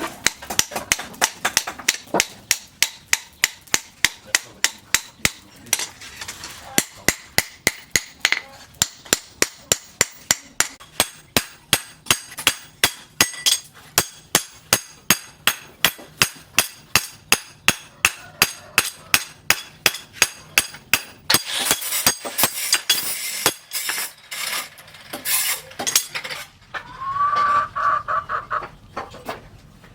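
Hand hammer striking a rusted leaf spring on an anvil as it is forged into a knife blade, a steady run of sharp blows at about three a second. After about twenty seconds the blows turn irregular, and a chicken clucks near the end.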